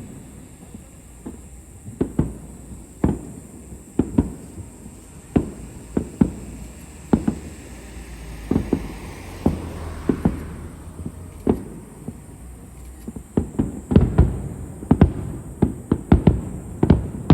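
Fireworks shells bursting in the sky: sharp booms about once a second, with a hissing rush around the middle, then a quick run of bursts close together near the end.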